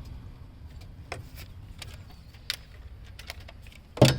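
Scattered light clicks and clinks of hand tools working on engine-bay bolts, with one sharp metallic knock near the end.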